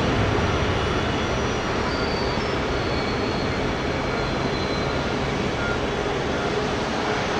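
Jet airliner engine noise: a steady rumble with a faint high whine that slides slowly down in pitch, easing slightly at the start.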